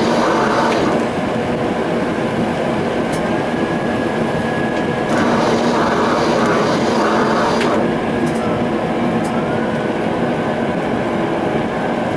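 Tram running along the track: a steady rolling rumble with a few sharp clicks, and a faint high tone in the middle and again near the end.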